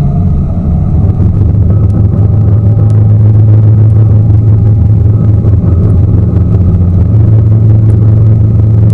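Tour boat engine running steadily, heard from on board: a loud low drone that grows a little louder over the first few seconds.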